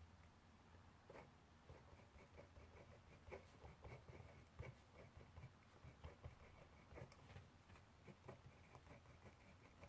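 Faint scratching of handwriting on paper: short, irregular strokes, several a second, over a steady low room hum.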